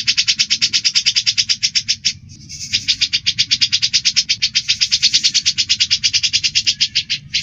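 Birds chattering in a fast, even run of chirps, about ten a second, in a cucak jenggot (grey-cheeked bulbul) and Eurasian tree sparrow song-training recording; the run breaks off about two seconds in and again briefly near the end.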